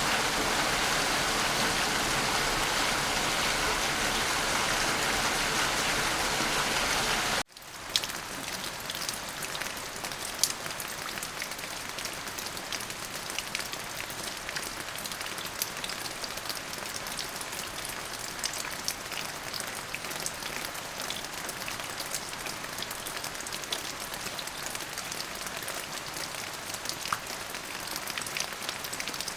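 Steady rain: a dense, louder downpour hiss for the first seven seconds or so, then, after an abrupt cut, a quieter spell of rain with many individual drops ticking sharply on hard surfaces.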